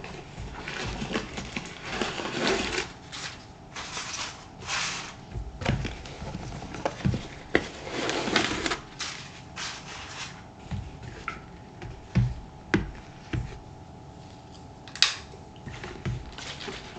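Close-up shoe-care handling of leather moc-toe boots: short scratchy strokes of brushing or spraying, with light knocks as the boots are moved and set down.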